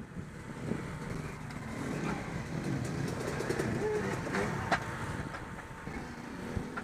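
Motocross bike engines running, a steady low rumble with a few scattered clicks.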